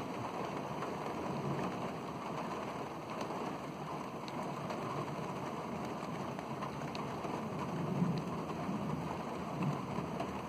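Rain falling steadily in a thunderstorm, with a few sharp ticks of single drops striking close by.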